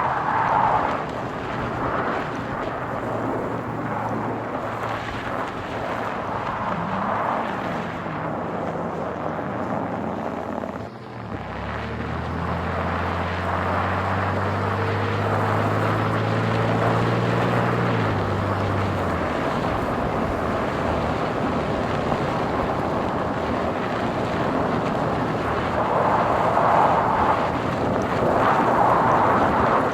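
A car being driven, with a steady rush of tyre and road noise. About eleven seconds in the noise dips briefly, then an engine hum at a steady pitch comes up for about seven seconds before fading back into the road noise.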